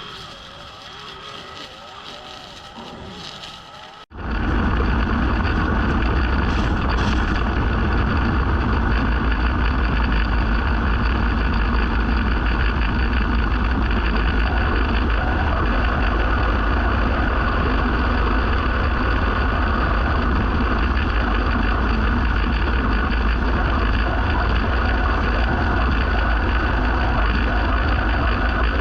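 Small gasoline engine of lawn-care equipment running steadily at constant speed. It cuts in abruptly about four seconds in, after a quieter stretch of mixed outdoor sound.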